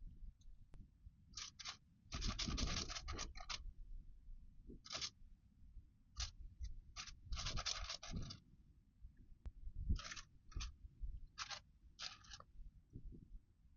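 Thin Bible pages being turned, a series of short papery rustles and flicks, with two longer runs of rustling, one a couple of seconds in and one about halfway through.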